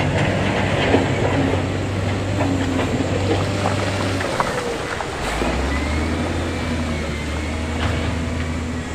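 Diesel engine of heavy construction equipment running steadily, its low note dropping to a lower pitch about halfway through, with scattered knocks and clanks.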